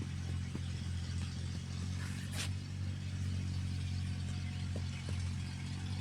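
Steady low mechanical hum, even in pitch, with a few faint clicks and a brief hiss about two seconds in.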